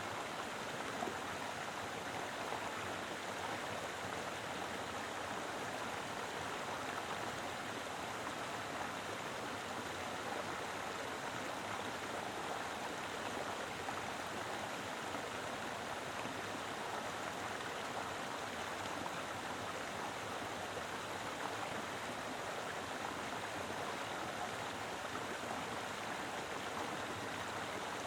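Mountain river flowing steadily, a constant rush of water over rocks with no breaks or changes.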